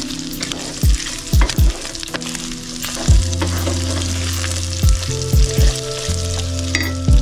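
Boiled tripe sizzling as it is stir-fried in a stainless-steel pan and turned with a wooden spoon. Several deep, loud low thumps, some in quick pairs, sound over a steady low hum.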